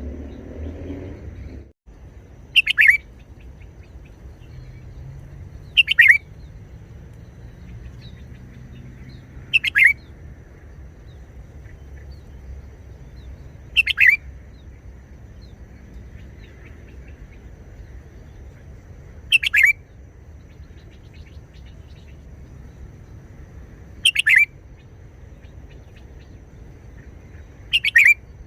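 Red-whiskered bulbul singing short, loud phrases, seven of them, one every four to five seconds, each a quick falling whistle.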